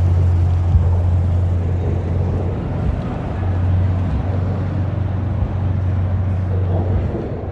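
A car engine running with a deep, steady low rumble.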